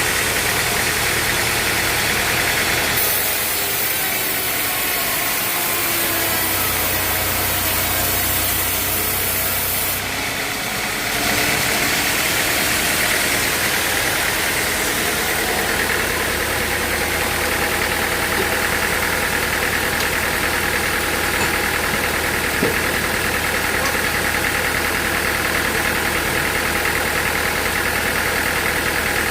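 Engine-driven machinery running steadily. The tone changes abruptly about three seconds in and again about eleven seconds in.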